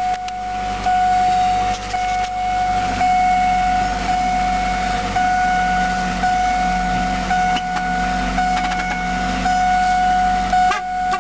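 2001 Ford Focus four-cylinder engine idling steadily just after starting, with a steady high tone sounding over it throughout.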